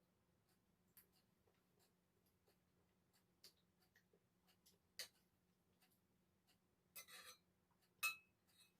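Faint eating sounds in near silence: a handful of short, scattered clicks and clinks of utensils and mouth, the loudest about eight seconds in.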